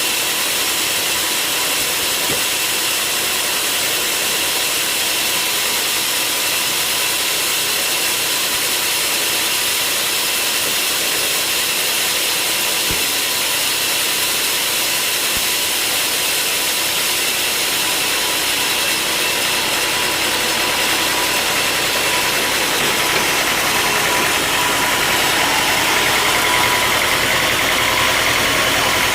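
Sawmill machinery running steadily: a continuous high hiss with a steady whine, growing a little louder about three-quarters of the way through.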